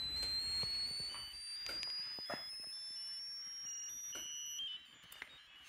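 A BBC micro:bit's speaker plays a thin electronic tone that glides slowly upward in pitch for about four and a half seconds: the rocket-launch sound effect. It ends in a few short stepped beeps, with faint clicks throughout.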